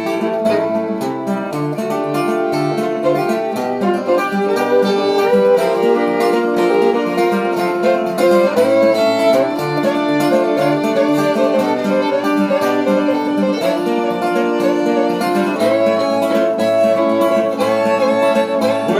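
Instrumental break of a country-style acoustic song: a fiddle plays the melody over strummed acoustic guitar, with no singing.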